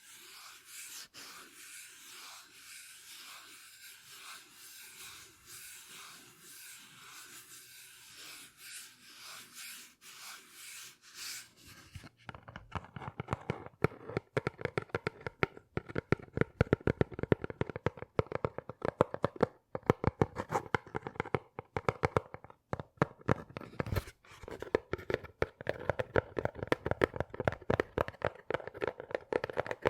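Close-miked ASMR trigger sounds made by hand. For about twelve seconds there are soft, even rubbing strokes, roughly one and a half a second. Then the sound switches abruptly to a louder, dense run of rapid scratchy clicks.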